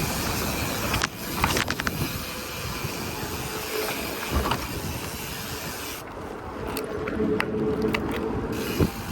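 Wind and road noise from riding a BMX bike, picked up by a chest-mounted camera, with a few sharp clicks and knocks between one and two seconds in. The rushing noise eases off in the last few seconds.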